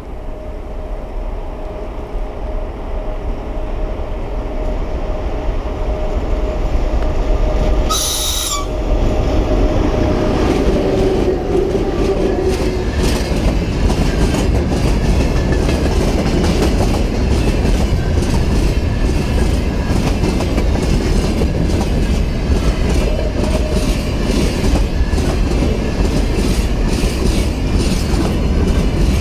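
A train draws near and then passes close by: a rising rumble with a steady tone. About eight seconds in comes a brief loud burst, and then a continuous fast clatter of wagon wheels over the rail joints, with some wheel squeal.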